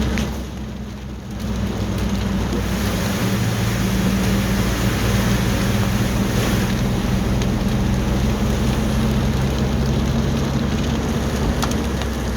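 Car driving on a flooded, rain-soaked road, heard from inside the cabin: a steady low engine and road hum under a loud hiss of tyre spray and rain. It dips briefly about a second in, then runs louder and steady.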